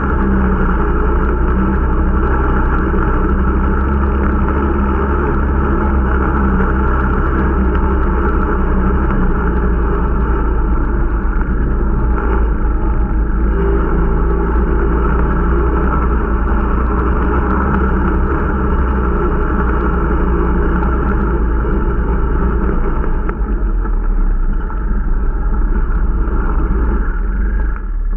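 Irbis Dingo T125 snowmobile's 125 cc four-stroke engine running steadily under way during its break-in, with the engine note dipping briefly near the end.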